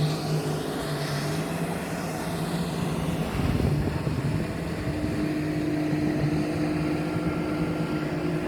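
Personal watercraft engine running steadily, with a brief rush of noise a little after three seconds in and a second, higher engine tone joining about halfway through.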